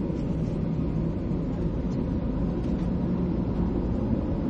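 Steady low rumble of a Boeing 737-800's CFM56-7B jet engines and the airflow, heard from inside the passenger cabin, with a faint constant hum on top.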